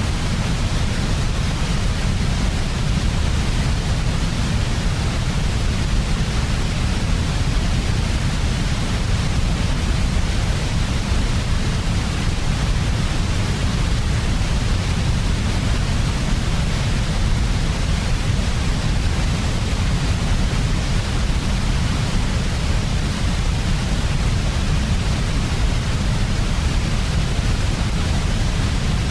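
Steady white noise for baby sleep, unchanging throughout: a deep low rush with a softer hiss on top.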